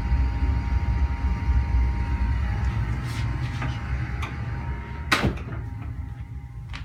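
Water heater running with a steady low rumble and hum that fades toward the end. About five seconds in there is one sharp knock, like a cupboard door shutting, followed by a few light clicks.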